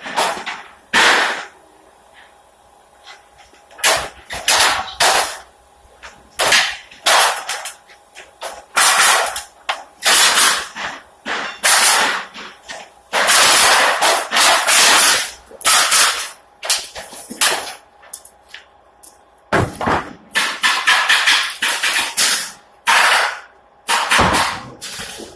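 Sharp bangs and knocks from repair work on a wooden pallet, coming in a fast, irregular series with a few short pauses.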